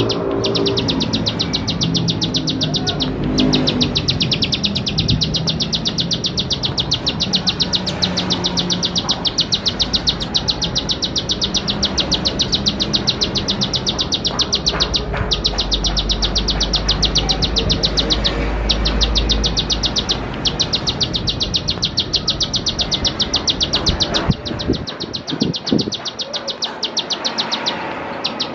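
Plain prinia (ciblek sawah) singing a long, rapid run of high ticking notes, broken by a few brief pauses.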